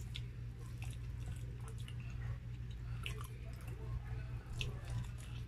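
Close-miked chewing and wet mouth smacking while eating chicken meat pulled off the bone, in scattered short clicks. A steady low hum runs underneath.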